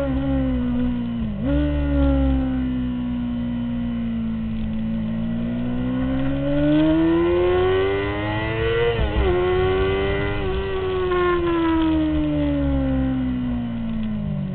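2003 Honda CBR600RR's inline-four engine heard from onboard at track speed, its pitch rising and falling with the throttle: a quick dip and recovery about a second and a half in, a long climb to a peak with a brief stutter around nine seconds, then a steady fall that drops sharply near the end. A low wind rumble sits under the engine.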